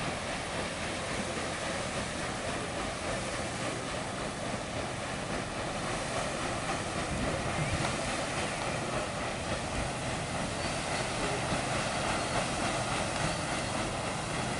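Paddle steamer passing on a fast-flowing river: a steady rush of churned water with a faint low hum, a little louder from about halfway through.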